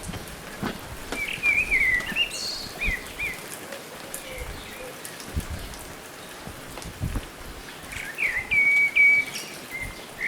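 A songbird singing two bursts of short chirps and trills, the first in the first few seconds and the second near the end, over a bed of scattered crackles and low thumps.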